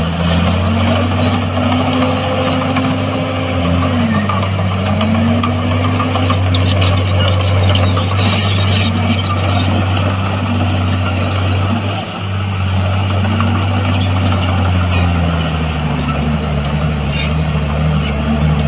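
Heavy earthmoving machine's diesel engine running steadily and loud, its pitch dipping and rising a few times as the engine speed changes, with a brief dip about twelve seconds in.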